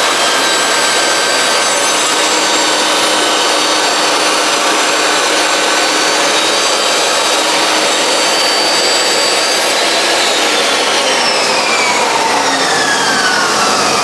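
Electric power saw running with a steady whine over loud motor noise, then its whine falls in pitch from about ten seconds in as the blade spins down, while a steady noise carries on.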